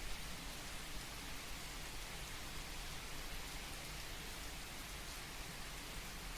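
Steady, gentle rain sound: an even patter of raindrops with no breaks.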